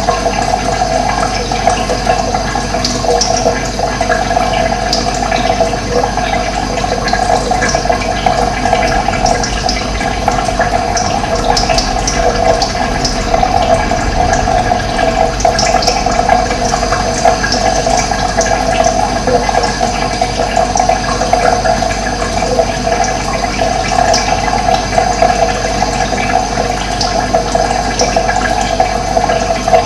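Running water flowing steadily, a continuous rush with no breaks.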